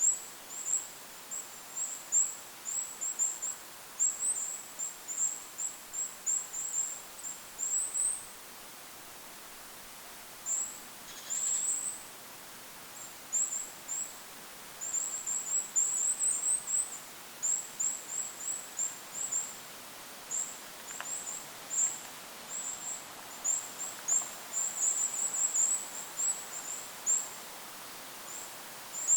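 Goldcrest calling: quick runs of very thin, high-pitched notes, some runs ending in a short rising flourish, over a soft hiss of wind.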